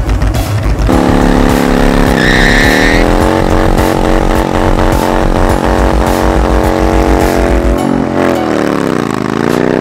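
A motor vehicle engine running. Its pitch dips and comes back up about two seconds in, then falls and climbs again near the end.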